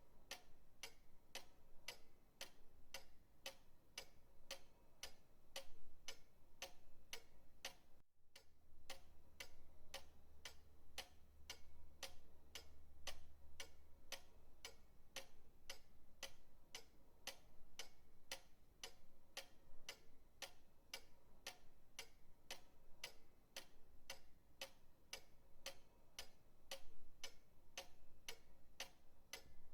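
Pendulum clock ticking steadily, about two ticks a second, with a momentary break about eight seconds in.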